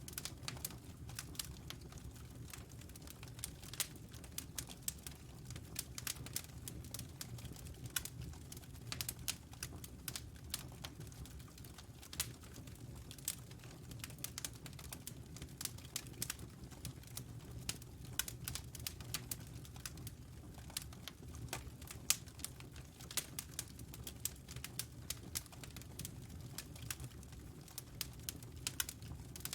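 Wood fire crackling in a fireplace: many sharp, irregular pops and snaps over a soft low rumble of the flames.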